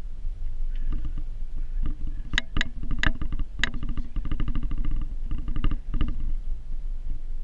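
A vehicle engine running steadily with a fast, even pulse. A quick run of four or five sharp knocks comes a little before the middle.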